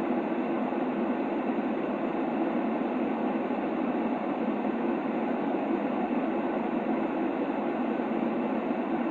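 Steady, unchanging noise played for a baby's sleep: an even rush that sits low to middle in pitch, with no rise, fall or breaks.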